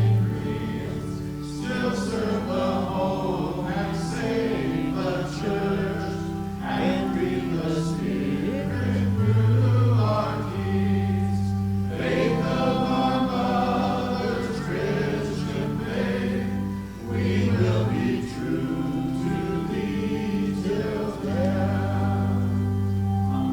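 Congregation or choir singing a hymn with keyboard or organ accompaniment, held notes over a steady bass line.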